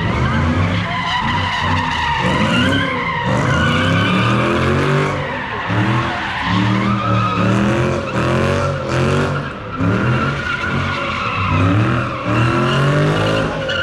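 A car doing donuts or a burnout: the engine is revved again and again, each rev rising in pitch, over a continuous tire squeal.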